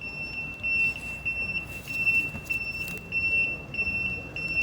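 A high-pitched electronic warning beeper on a garbage truck, holding one pitch and pulsing about four times a second, over low engine and street noise, with a few short clatters about two to three seconds in.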